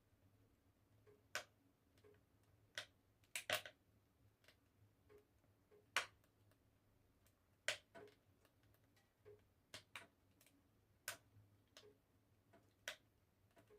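Wood fire crackling in a fireplace: scattered sharp pops and snaps at uneven intervals, with a quick burst of louder pops about three and a half seconds in, over a faint low hum.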